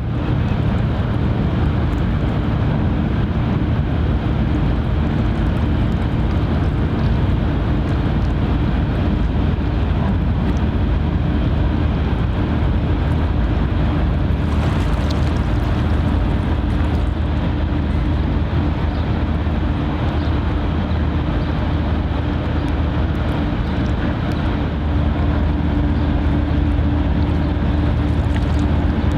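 Boat engine running with a steady low drone, several low tones holding constant pitch, over a rushing haze of wind and water.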